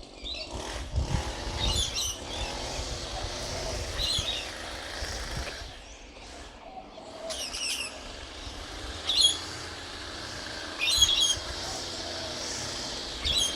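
Bird chirping, short high calls about every one to two seconds, over a steady low rumble.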